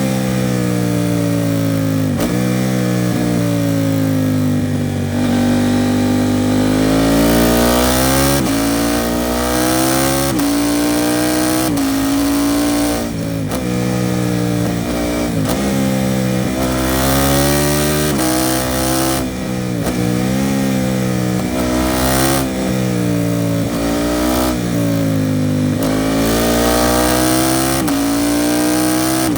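KTM 790 Duke's parallel-twin engine through an Arrow Pro Race titanium exhaust, ridden hard through the gears. Its pitch climbs under acceleration, drops sharply at each gear change and sags as the throttle closes, over and over, with wind rushing on the microphone.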